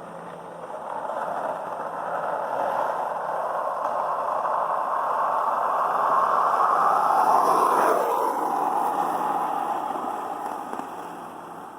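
Skateboard wheels rolling on a paved road: a steady scraping roll noise that swells to its loudest about two-thirds of the way through, with a single clack there, then fades away near the end.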